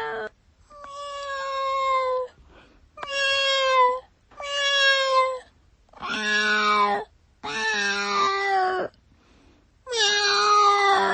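Domestic cat meowing over and over: about six long meows of a second or so each, separated by short pauses, the two near the middle deeper and rougher than the rest.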